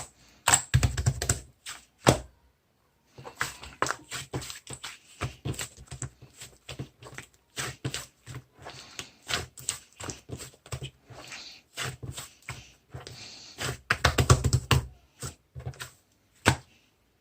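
Slime being squeezed and kneaded by hand, giving a rapid, irregular run of clicks and pops as air pockets burst. There is a short pause about two seconds in and a dense flurry of clicks near the end.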